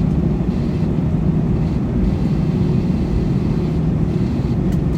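Steady cabin noise inside an Airbus A321 airliner: a continuous low rumble of engines and airflow with a faint steady hum in it.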